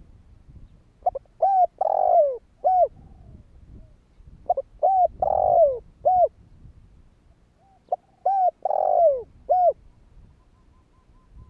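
Spotted dove cooing: three phrases, each a few short coos with one longer, falling coo in the middle, repeated about every three and a half seconds.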